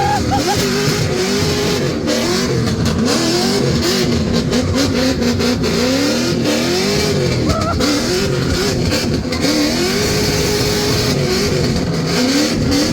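Cammed 4.8-litre LS V8 with long-tube headers in an E46 drift car, revving hard and falling back over and over during a drift run, its pitch rising and dropping every second or two.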